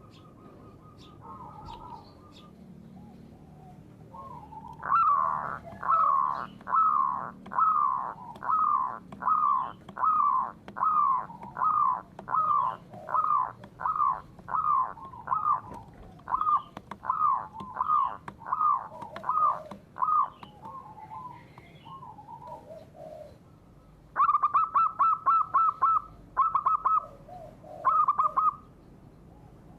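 A bird calling: a long series of down-slurred notes, about one and a half a second, then near the end faster bursts of rapid trilled notes.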